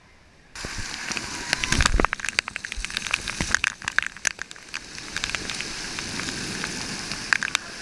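Water splashing and spattering right against a waterproof action camera: a dense crackle of droplets and splashes that starts abruptly about half a second in. It is loudest around two seconds in, then eases into a steadier watery hiss.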